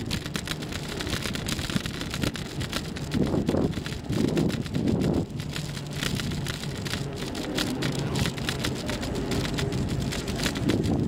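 Bicycle ride noise: wind buffeting the microphone and the bike rattling over the road, a steady rush with dense clicking and a low rumble.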